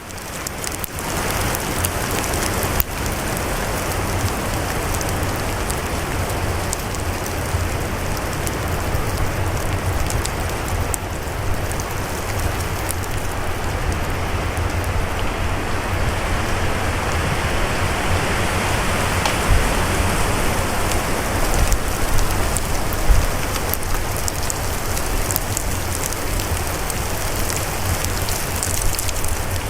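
Storm-force wind rushing through the forest in a steady roar of noise that swells a little midway, with a deep rumble of wind on the microphone and a fine crackle of driven snow or debris.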